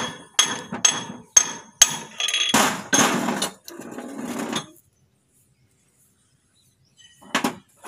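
Hammer blows on steel, a run of about six sharp ringing strikes over the first two seconds, driving a king pin into a JCB front axle spindle through its new bushes. A longer, rougher metal sound follows, then it goes quiet apart from two short knocks near the end.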